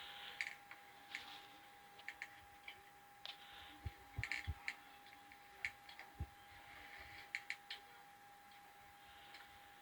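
Faint, irregular clicks and ticks, about fifteen scattered through, over a steady thin high tone and soft hiss.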